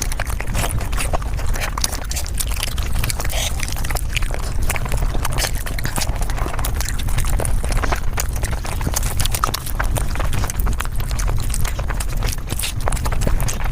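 Mukbang eating and chewing sounds sped up about five times, a dense, continuous run of rapid clicks and smacks.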